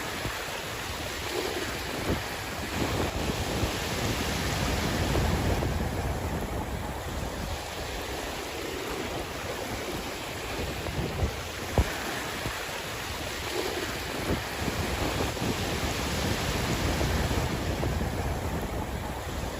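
Sea waves washing in, swelling twice in slow surges and falling back, with wind rumbling on the microphone. A sharp tick about twelve seconds in.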